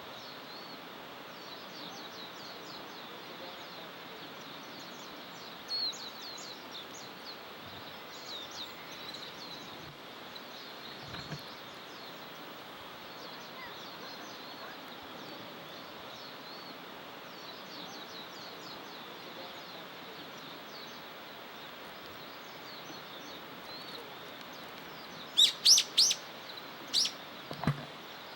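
Small birds chirping: many quick, faint, high chirps come and go over a steady outdoor hiss. A few loud, sharp calls ring out close by near the end.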